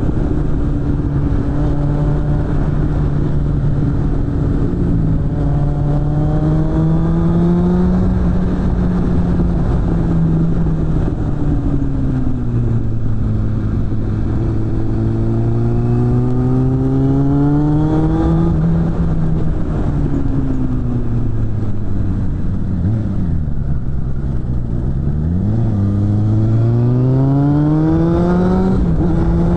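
Suzuki GSF600 Bandit's inline-four engine through a BOS aftermarket exhaust while riding. The revs climb several times under acceleration and drop back at gear changes, sag low while slowing partway through, then climb hard again near the end.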